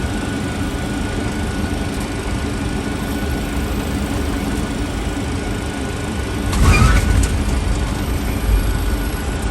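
Steady rush and rumble on an MD-80's flight deck through the landing flare, with a louder rumbling jolt about six and a half seconds in as the main gear touches down on the runway.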